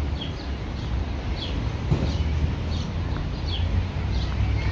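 A bird calling in short, falling chirps, about two a second, over a steady low rumble of outdoor background noise.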